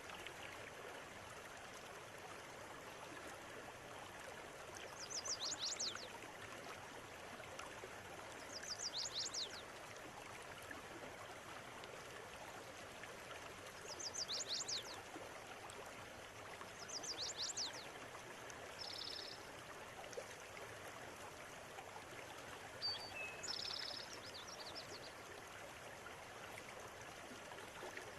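River water flowing steadily over stones, with a small bird singing a short high, quick phrase about six times, every few seconds.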